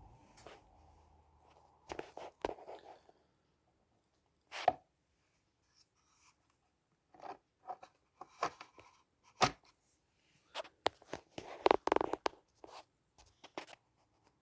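Handling noises from a plastic OO gauge model locomotive: irregular small clicks, taps and knocks with some rustling, the sharpest knocks about four and a half seconds in and a cluster near the end.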